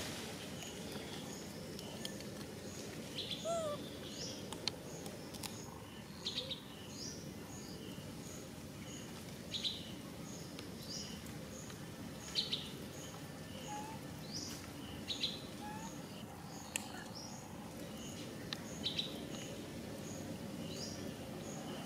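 Birds chirping in the background: short, sharp high chirps every second or two, some sweeping down in pitch, with a faint high note repeating at an even pace over steady low background noise.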